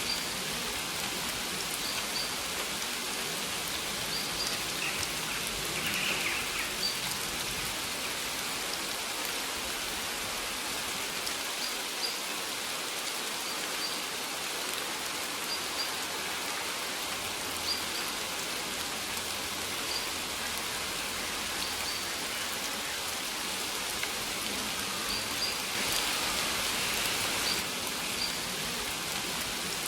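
Steady rain falling in an even hiss, with short high bird chirps every second or two. The rain swells briefly near the end.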